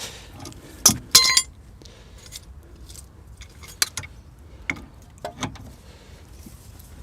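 Metal hand tools on steel steering parts while a stuck tie rod end is worked loose: a sharp knock about a second in, then a ringing metallic clank, followed by a few lighter clicks and taps.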